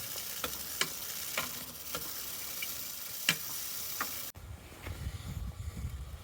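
Bicycle chain being drawn through a brush chain cleaner: a steady scrubbing hiss with sharp clicks about every half second. The hiss cuts off abruptly about four seconds in, and lower rustling and a few clicks follow.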